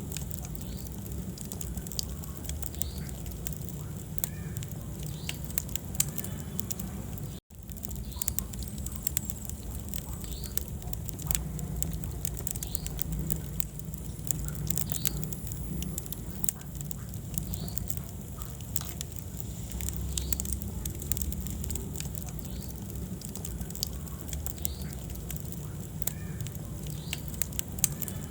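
Wood fire burning in a fireplace: a steady low rumble of flames with frequent sharp, irregular crackles and pops. The sound cuts out for a split second about seven seconds in.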